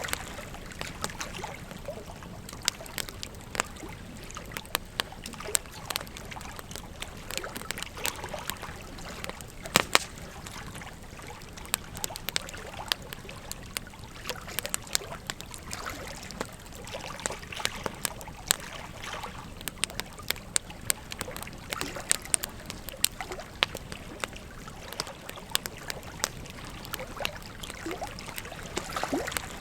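Wood fire crackling, with frequent irregular sharp pops and snaps, the loudest about ten seconds in, over the steady rush of a flowing river.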